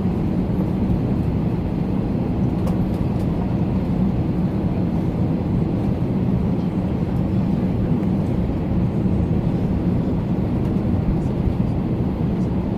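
Steady low drone and rush of a parked airliner's machinery, with a faint hum held at a constant pitch.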